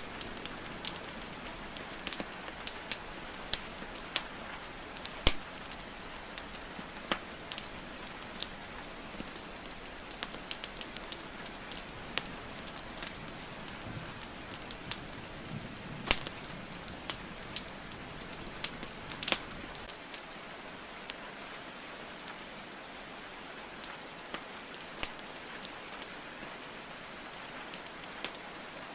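Wood fire crackling, with scattered sharp pops of burning logs, a few louder than the rest, over the steady hiss of falling rain.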